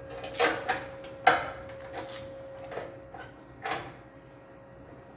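About six short, sharp metallic knocks and clanks, irregularly spaced and loudest in the first second and a half, as steel bracing is fitted and clamped against the car frame. A faint steady hum runs underneath.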